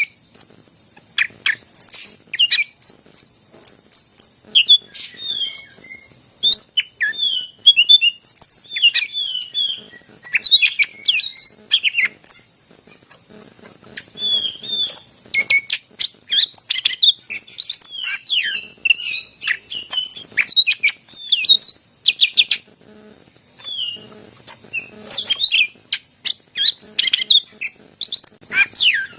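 Green leafbird (cucak ijo) singing in full song: a fast, varied run of chirps, sharp whistles and sweeping notes, with a short lull about twelve seconds in. A steady high hiss and a thin steady tone run behind it.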